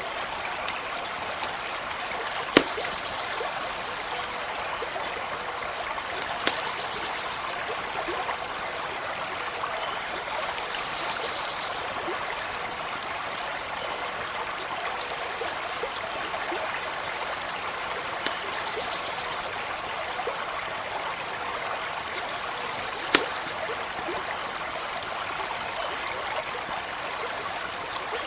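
A shallow stream runs steadily over stones, with a campfire crackling over it: scattered small ticks and two sharp, louder pops, one a few seconds in and one near the end.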